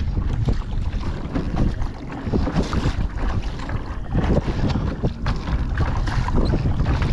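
Strong wind buffeting the microphone: a heavy low rumble that rises and falls with the gusts.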